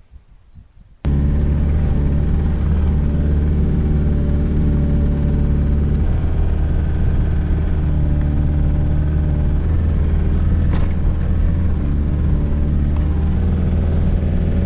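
Motor vehicle engine running steadily with a loud low drone, cutting in suddenly about a second in.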